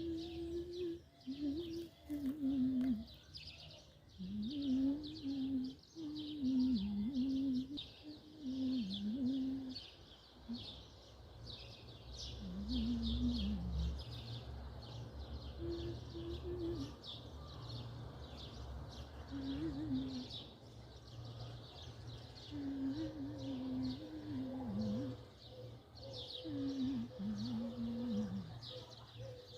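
Many small birds chirping rapidly and continuously, with lower rising-and-falling calls repeating every second or two.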